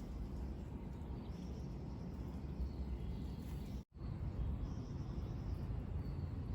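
Outdoor ambience: a steady low rumble with faint high chirping from birds and insects. The sound cuts out completely for an instant just before four seconds in.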